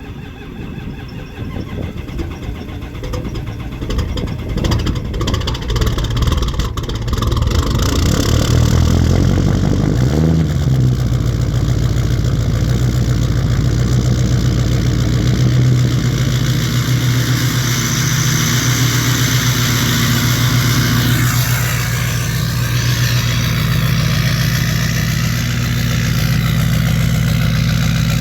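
Ford 6.0 Powerstroke V8 turbo-diesel on a cold start: it runs unevenly and builds up over the first several seconds, picks up briefly about ten seconds in, then settles into a steady idle.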